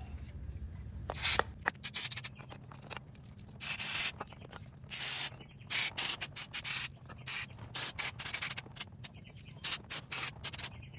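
Aerosol brake cleaner sprayed through a fouled minibike carburetor in a series of hissing bursts, some about half a second long and many shorter, flushing out gum left by old gas.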